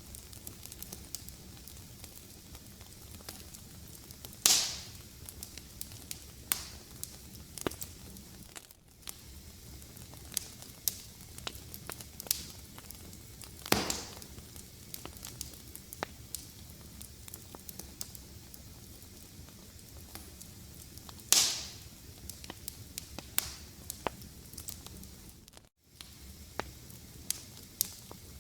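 Fireplace fire crackling steadily, with many small snaps and three much louder pops spread through it.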